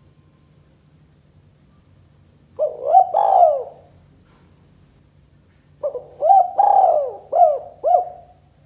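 Spotted dove (tekukur) cooing in the 'kuk 2' song style: a short phrase of coos about two and a half seconds in, then a longer phrase of several coos near the end.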